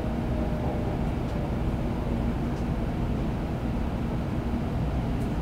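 Running noise inside the cabin of a Kyushu Shinkansen train: a steady low rumble with a faint hum.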